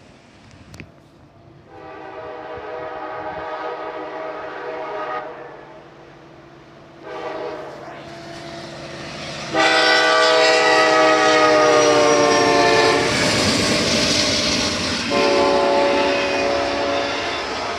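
Approaching freight locomotive's multi-note air horn sounding a long blast, a short one, then two more long ones, the last two much louder: the long-long-short-long grade-crossing signal. The rumble of the oncoming train grows under the horn.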